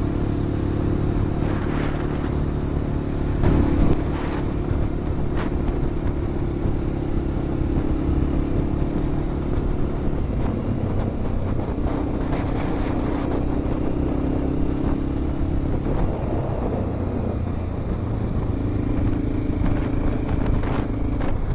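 Honda XR650L's single-cylinder engine running at road speed under way, with wind and road noise; its pitch shifts a few times as the throttle changes.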